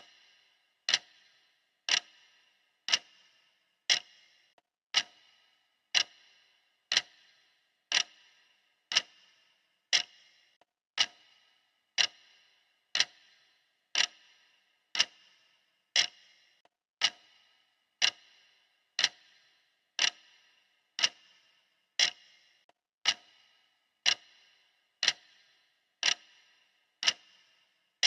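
Clock ticking steadily, one sharp tick a second, each with a short metallic ring.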